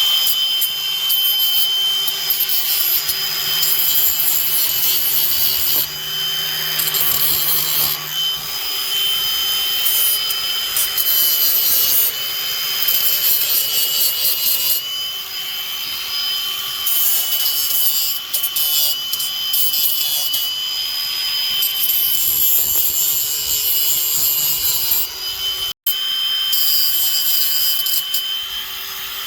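Angle grinder grinding the cracked weld edges on a metal go-kart frame clean for welding: a steady high motor whine under harsh grinding noise that swells and eases as the disc is pressed on and eased off. There is a brief break near the end.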